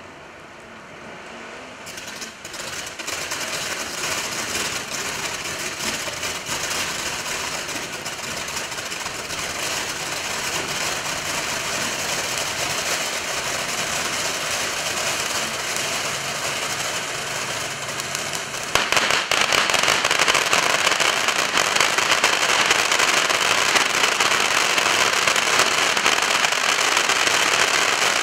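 Consumer fireworks cake 'Gems of the Urals' going off: a dense rapid crackling and popping begins about two seconds in, builds, and grows louder and denser about two-thirds of the way through.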